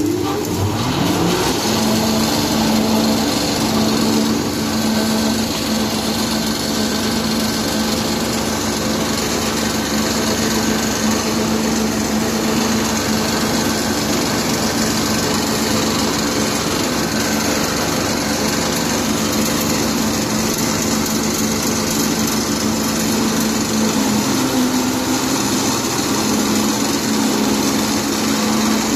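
Feed pellet machine starting up: its motor comes on suddenly and spins up over about a second, rising in pitch, then runs at a steady loud hum with a rough mechanical noise.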